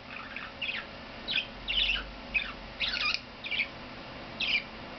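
Pet budgerigar singing: a string of short, high chirps and squeaky notes, some sliding down in pitch, coming in quick irregular bursts.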